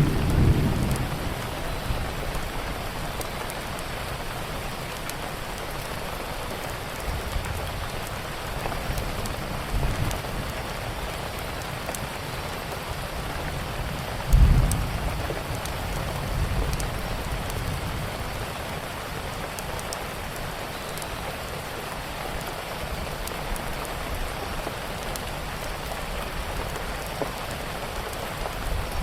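Steady heavy rain with sharp little crackles from a wood fire scattered through it. A low thunder rumble fades away at the start, and about halfway through a louder clap of thunder rolls out over a few seconds.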